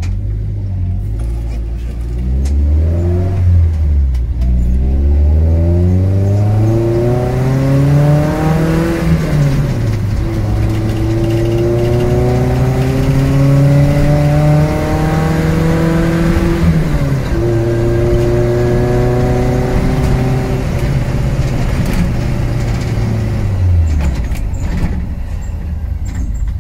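Suzuki SJ410's engine, heard from inside the cab, idles and then pulls away from a standstill. The revs climb, drop at a gear change about nine seconds in, climb again, and drop at a second shift around seventeen seconds. They then hold steady before falling away near the end.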